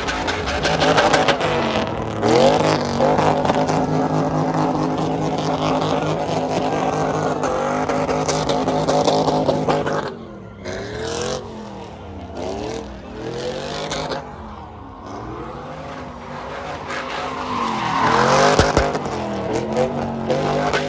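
A truck's engine revving hard during a burnout, with tire noise. It is held at high revs for about ten seconds, then blipped up and down over and over, and climbs loud again near the end.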